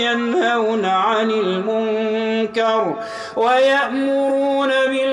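A man reciting the Quran in melodic tajweed style, holding long drawn-out vowels that step and turn slowly in pitch, with a quick breath about three seconds in.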